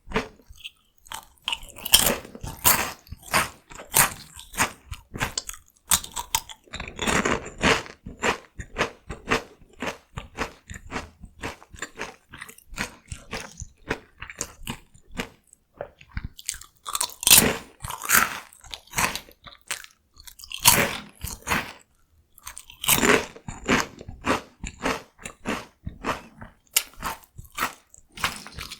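Close-miked crunching and chewing of Kkokkal Corn, the crisp Korean cone-shaped corn snack: sharp, irregular crackles with louder bites every few seconds.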